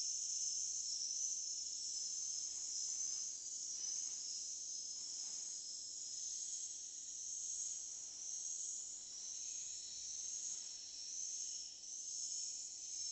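Many swiftlets chirping and twittering together in a dense, continuous, high-pitched chatter.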